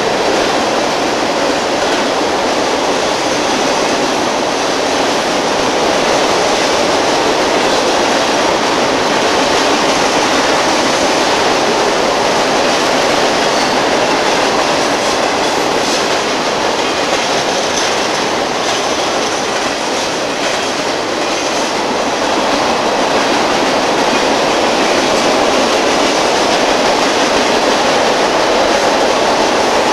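Freight train passing, its steel wheels rolling steadily on the rails.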